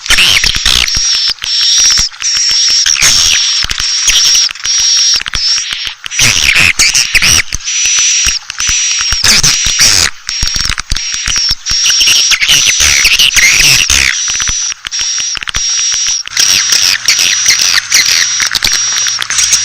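Swiftlet lure call: a loud, dense stream of high chirping and twittering from many swiftlets, broken by rapid clicks, of the kind played to draw swiftlets into a nesting house. A steady low hum comes in near the end.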